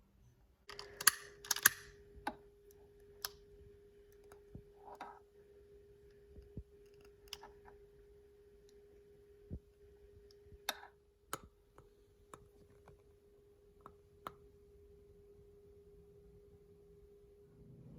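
Scattered button clicks and taps, about a dozen, with the loudest few in the first two seconds. Under them a steady hum starts about a second in and stops just before the end.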